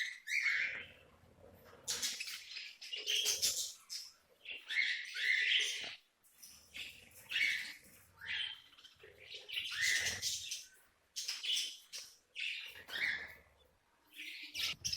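Budgerigars chirping and chattering: a flock of pet budgies giving short, repeated calls in irregular bursts.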